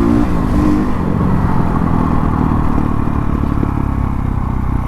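Dirt bike engine running while riding, with a dense low rumble of engine and road noise. Its pitch dips and the clear tone gives way to the rumble within the first second.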